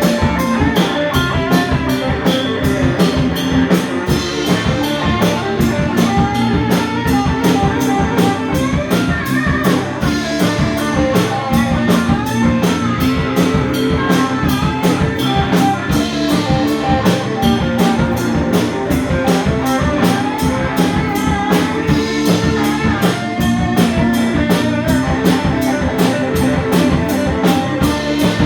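A live rock band playing an instrumental passage: electric guitar over bass, keyboards and a drum kit keeping a steady beat.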